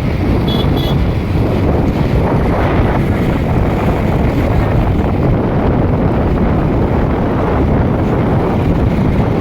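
Wind buffeting a phone's microphone on a moving motorcycle: a steady, loud rush of air and road noise. Two short high beeps sound about half a second in.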